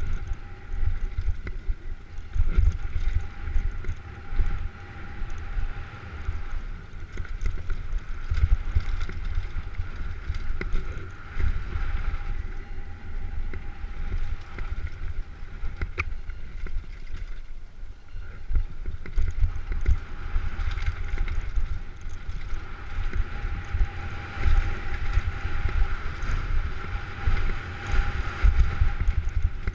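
Wind buffeting a bike-mounted camera's microphone during a downhill mountain-bike run, with the rumble and rattle of the bike over rough trail. A faint, wavering whine sits over the noise.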